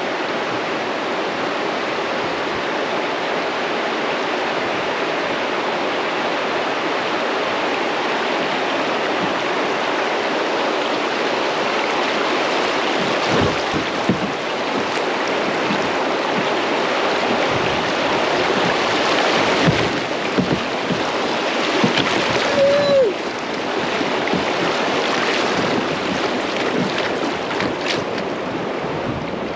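Creek rapids rushing around a kayak running rough water: a loud, steady wash of water, with a few sharp knocks scattered through it.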